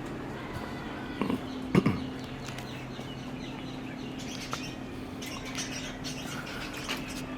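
Outdoor birds chirping, over a steady low hum, with two short louder sounds about a second and a half in.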